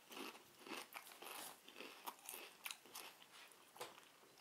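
Faint, irregular crunching of a person chewing a mouthful of thick, crunchy paprika crisps.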